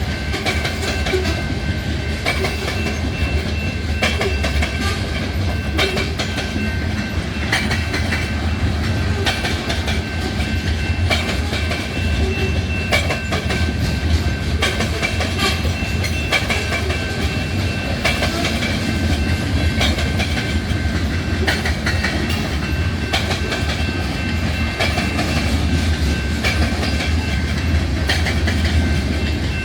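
Freight train of hopper cars rolling past with a steady heavy rumble, its wheels clicking over the rail joints in quick irregular strokes. A thin steady high tone runs over the noise.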